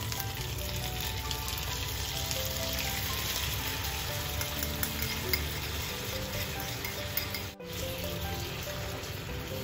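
Chicken thighs frying in oil in a pan, sizzling steadily as teriyaki sauce is poured over them and spooned around. The sizzle briefly drops out about three quarters of the way through, then carries on.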